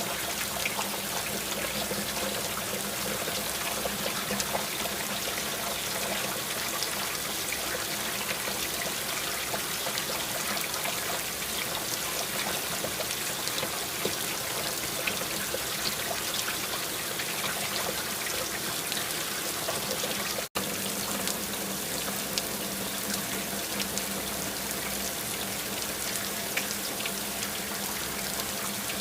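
Steady rain falling, an even hiss with scattered small drop ticks. It cuts out for an instant about twenty seconds in.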